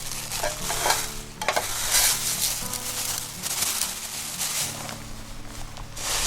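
Sizzling and crackling cooking noise over a campfire, with uneven surges and a few knocks of cookware being handled.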